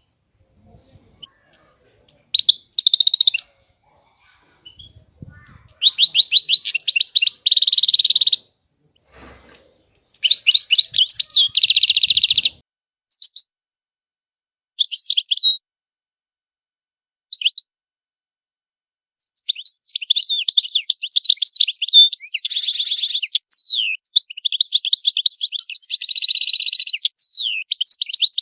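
European goldfinch singing: bouts of rapid twittering and buzzy trills broken by short pauses, then a long unbroken run of song for the last third.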